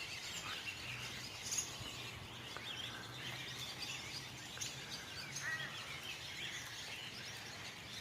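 Birdsong: several birds chirping and trilling in short, overlapping calls, over a faint steady low hum.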